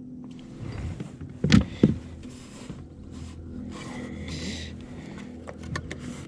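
Handling noises aboard a kayak: irregular rustling and scraping, with two loud knocks close together about a second and a half in, a short buzz near the middle and a few light clicks near the end.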